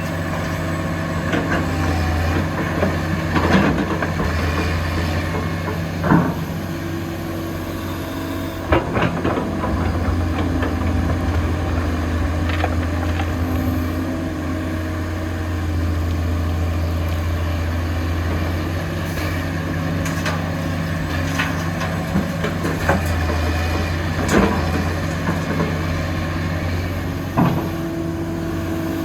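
Heavy diesel construction machinery running steadily with a low engine drone, with several sharp knocks at irregular intervals.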